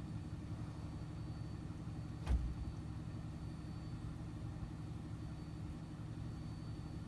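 Cat 315C L excavator's diesel engine running at a steady idle on a cold start in freezing weather. A single sharp knock sounds about two seconds in.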